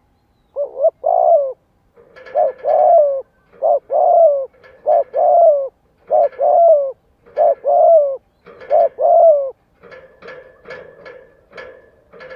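Spotted dove cooing: seven loud two-part coo phrases, a short note then a longer, slightly falling one, each about a second and a quarter apart. This is a caged decoy dove's calling used to lure wild doves. After about nine and a half seconds the cooing stops and fainter short clicking notes follow.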